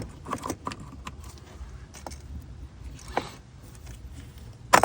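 Scattered clicks, knocks and rattles of a plastic EVAP line and its clips being handled and worked into place under a car, with a sharp knock near the end.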